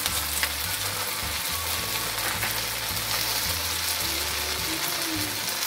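Okra, onion and tomato frying in oil in a wok: a steady sizzling hiss.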